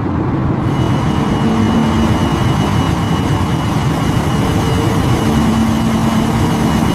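Steady engine-like mechanical rumble with a faint constant hum.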